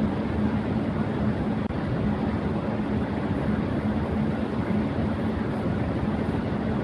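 Electric fan running steadily at high speed: an even whooshing rush of moving air with a constant low hum from the motor.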